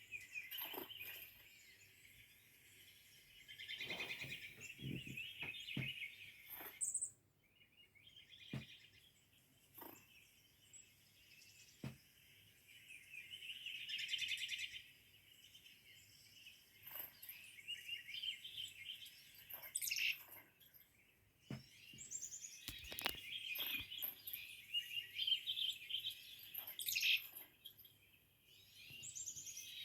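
Small birds chirping, in bursts of rapid high twittering that come and go, with a few short clicks between the bursts.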